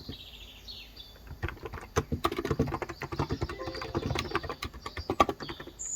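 Fast typing on a COX Endeavor electro-capacitive (Topre-style) keyboard with 35 g switches, a dense run of soft keystroke clicks. Birds chirp in the background, with a falling call near the start.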